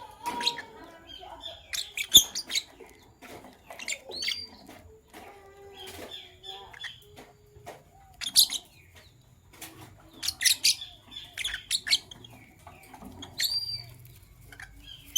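Pet lovebirds chirping: sharp, high calls in short clusters every second or two, some rising and then falling, with softer chatter between them.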